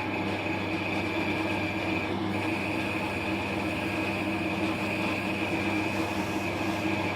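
Wood lathe running steadily at speed, a constant motor hum with a steady high whine, as finish is worked into the spinning wooden mallet.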